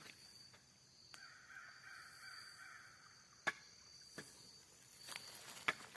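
A bird calls faintly for about two seconds, starting about a second in, with a couple of footsteps on the trail.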